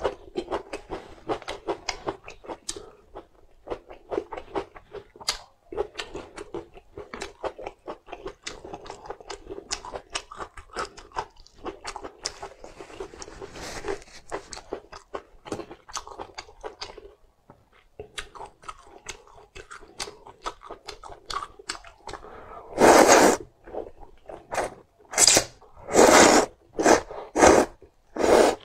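Close-miked chewing of hand-rolled noodles and sliced green chillies: a steady run of quick wet mouth clicks and crunches. Near the end come several much louder noisy bursts.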